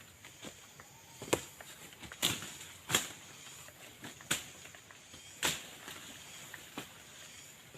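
A series of about six sharp knocks or snaps at uneven intervals over a faint steady hiss.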